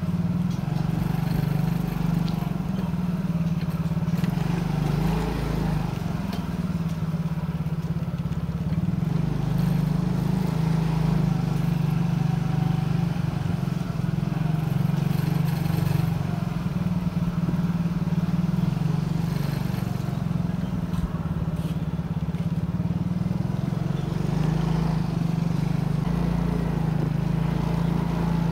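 Motorcycle engine running at a fairly steady speed while riding, a constant low drone that shifts only slightly, with road and wind noise over it.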